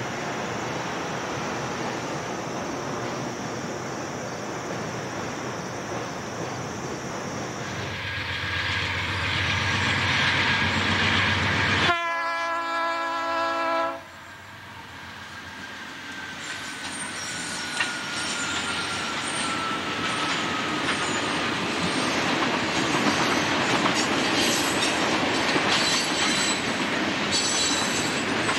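Trains running: first the steady rumble of a passenger train, then a diesel locomotive's multi-note air horn sounding one blast of about two seconds midway, followed by freight car wheels clicking over rail joints and squealing as the train passes, growing louder toward the end.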